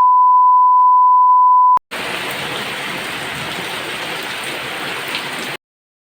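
A loud, steady electronic beep at one pitch for nearly two seconds, ending in a click, then heavy rain hissing for almost four seconds before the sound cuts off suddenly.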